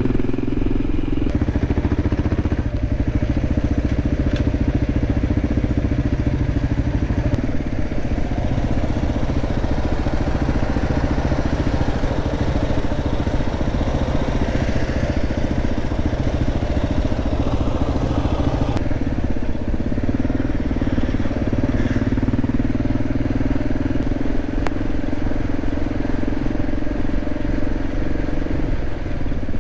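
Motorcycle engine running while riding, a steady drone whose note shifts several times as the throttle changes.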